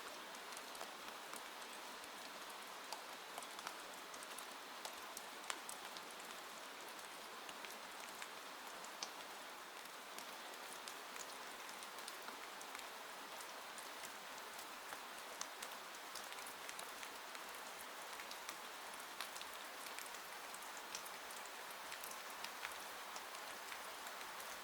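Steady rain, an even hiss with many separate drops ticking sharply on a surface.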